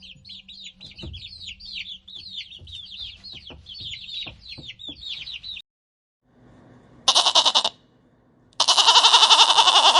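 Animal calls: a rapid run of high, downward-sweeping chirps for about five and a half seconds, then after a brief silence a short loud wavering call and, about a second and a half later, a longer one.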